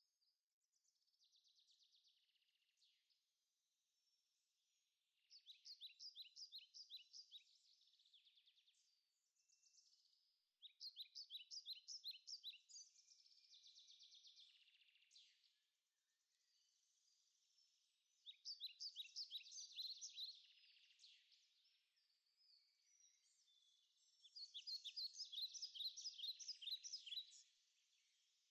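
Faint birdsong: a songbird repeating a quick, high trill in four bouts of two to three seconds each, with softer chirps in between.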